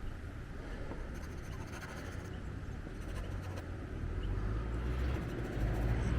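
Watercolor pencil scratching across synthetic paper in short strokes. A low rumble builds up from about two-thirds of the way in.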